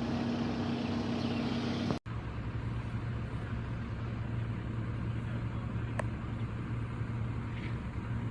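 Car driving, with steady engine and road noise; about two seconds in the sound cuts abruptly and resumes as a steadier low engine hum with less hiss.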